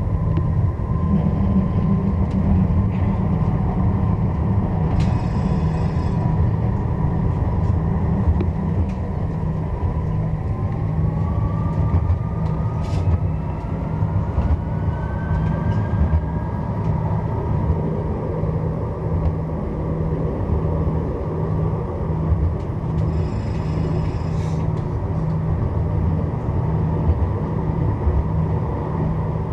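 A Strasbourg Eurotram tram running, heard on board: a steady low rumble of wheels and running gear with a motor whine that rises in pitch partway through. There are two brief clusters of high ringing tones, one near the start and one near the end.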